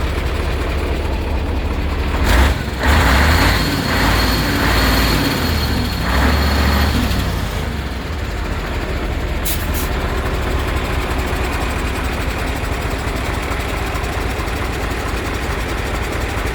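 Mercedes-Benz SK 2629 6x6 truck's diesel engine idling, with a short hiss of air about two seconds in. The engine then swells louder three times before settling back to a steady idle.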